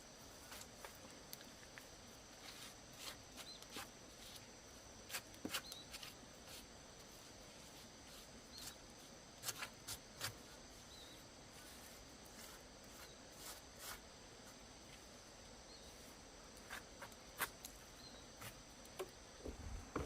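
Faint, irregular crackles and sharp clicks over a low hiss, with a few louder snaps about five, ten and seventeen seconds in.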